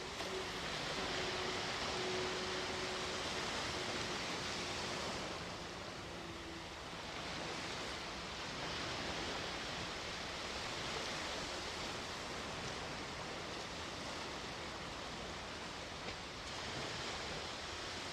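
Sea waves washing onto the shore: a steady rushing wash that swells and eases, softening briefly about six seconds in.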